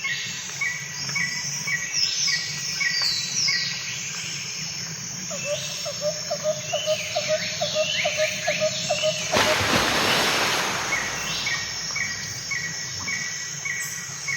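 Birds calling outdoors: runs of short repeated chirps and quick downward-sweeping whistles from several birds, with a lower note repeating several times a second through the middle. A brief rush of noise comes about nine and a half seconds in.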